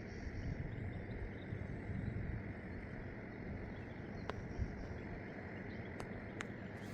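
Steady rushing of a river swollen by heavy rain, with a few faint clicks in the second half.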